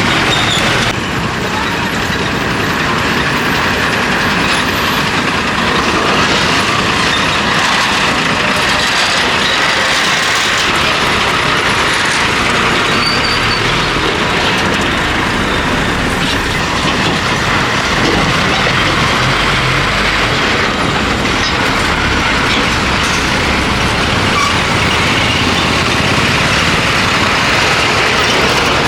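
Steady din of road traffic: the engines and tyres of buses, trucks and motorbikes passing at close range.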